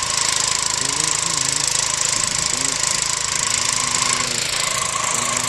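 A small engine running steadily, with faint wavering tones underneath.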